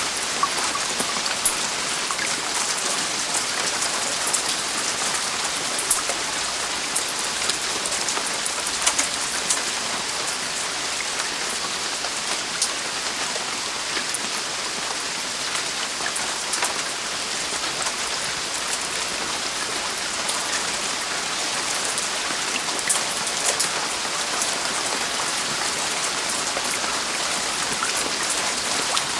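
Heavy rain falling on a roof: a steady hiss of rain with many sharp, distinct drop impacts scattered through it.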